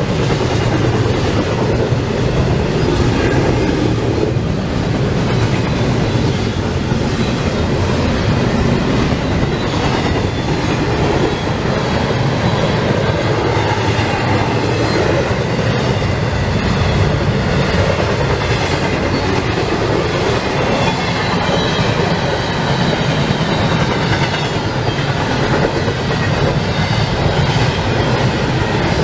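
CSX freight train rolling past: double-stack container cars, then empty flatcars. The wheels give a steady loud rumble and clatter on the rails.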